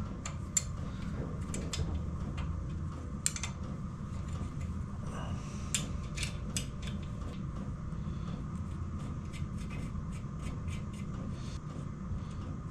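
Light metallic clicks and taps of small engine parts being handled and set down, scattered irregularly over a steady low hum.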